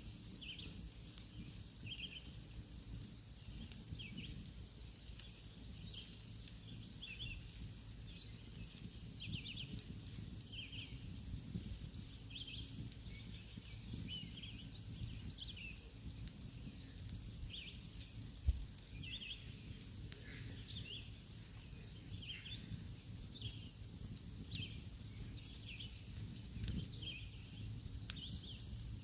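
Small birds chirping in short calls over and over, above a campfire burning with a low rumble and a few faint crackles. A single low thump stands out about two-thirds of the way through.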